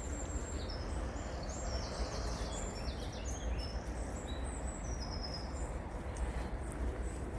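A songbird singing a rapid run of short high notes that step up and down in pitch, ending about five seconds in, over a steady low rumble.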